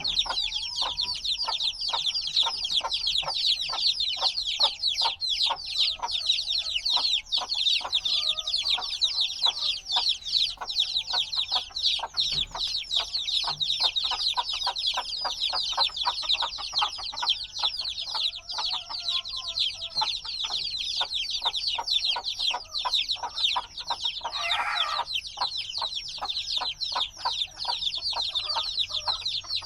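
A brood of newly hatched chicks peeping constantly, many high chirps overlapping without a break. A short lower sound cuts in about five seconds before the end.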